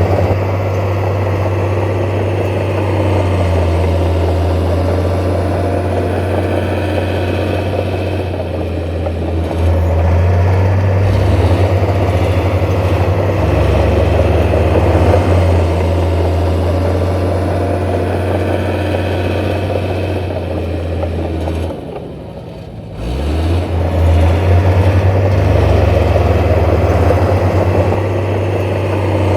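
Heavy diesel engine of earth-moving machinery running steadily with a deep hum. About three-quarters of the way through it drops off briefly, then revs back up.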